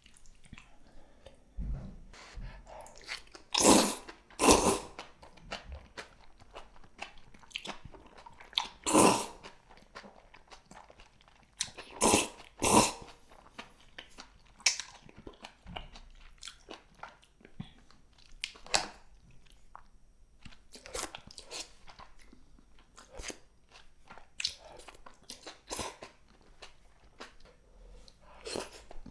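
Close-miked eating of spicy cheese jjimdak (Korean braised chicken): steady chewing and biting, with a few louder, longer bursts of slurping or crunching spread through the stretch.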